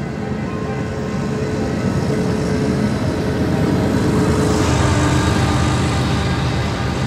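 Union Pacific freight train passing close by, its rumble building up to a peak about five seconds in and easing slightly near the end, with a few faint steady tones over it.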